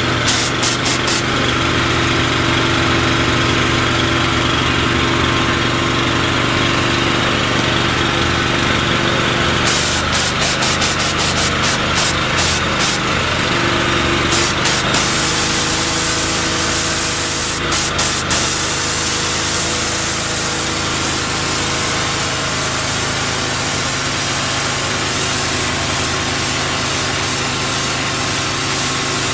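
Engine-driven 2500 psi pressure washer running steadily with a sand injection nozzle: a constant engine drone under the hiss of the sand-laden water jet.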